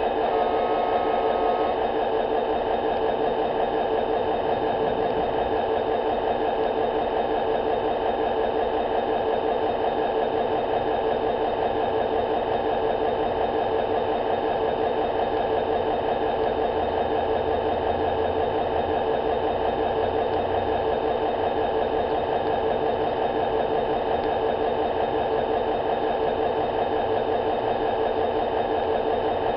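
G-scale garden-railway train running, its electric motor and gearing giving a steady whir with a fixed hum.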